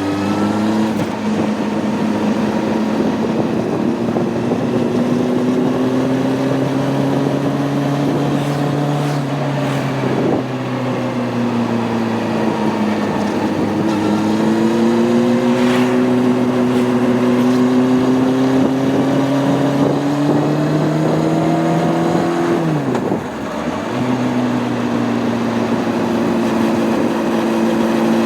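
Honda CB600F Hornet's inline-four engine pulling under way, its pitch climbing steadily and dropping at a gear change about ten seconds in and again a little past twenty seconds, over wind noise.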